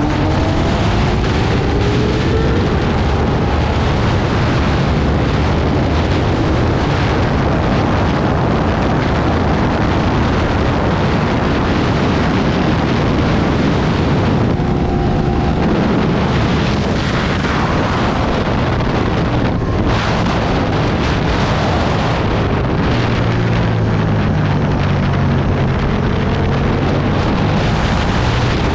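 Aprilia Tuono V2 1000's V-twin engine running hard at speed under heavy wind noise on the microphone, its revs rising and falling through the gears.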